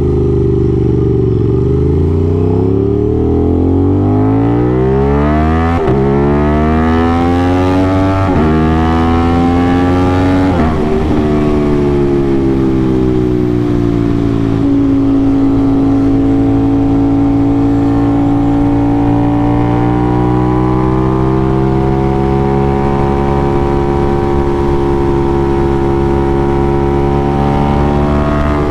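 Aprilia RS660's parallel-twin engine through an aftermarket SC Project CRT exhaust, accelerating hard through the gears with quick upshifts about 6, 8 and 10 seconds in, each dropping the revs before they climb again. It then settles to a steady pull with the revs rising and falling gently through the bends.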